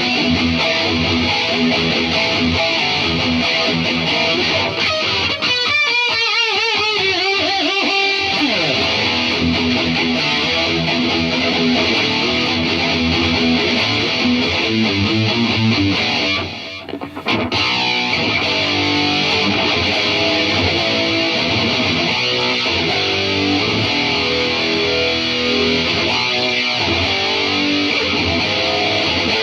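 Distorted electric guitar playing riffs and runs through an Atomic AmpliFire amp-modeler pedal, heard from cheap computer speakers. A few seconds in, a held note wavers in pitch, and the playing breaks off briefly a little past the middle.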